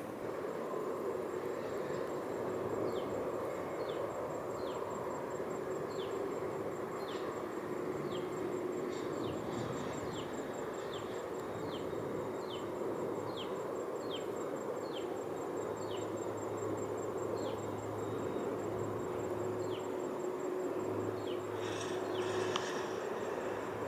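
Insects trilling: a steady high, buzzing trill with short falling chirps roughly once a second, over a steady background rumble. A brief rustling hiss comes near the end.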